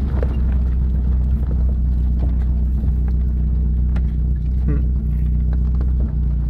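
Vehicle engine running steadily at low revs while the vehicle manoeuvres slowly through a tight turn, with a few light knocks over the hum.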